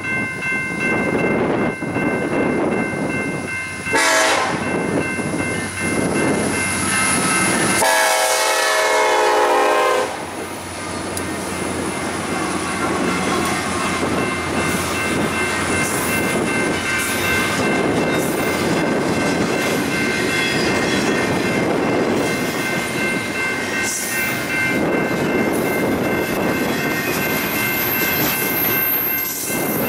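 Union Pacific double-stack intermodal train passing, led by four diesel-electric locomotives that go by in the first ten seconds or so, then the container well cars rolling past with steady wheel-on-rail clatter. A steady high ringing runs through it.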